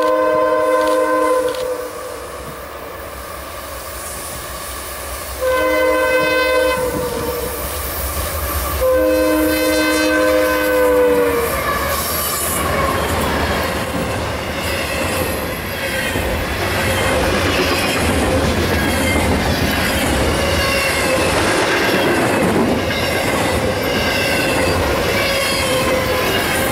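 Freight locomotive air horn sounding a chord in three blasts, the last and longest dropping slightly in pitch as the locomotive passes. Then the steady rumble and clatter of a CSX double-stack intermodal train's wheels rolling by on the rails, with faint wheel squeal.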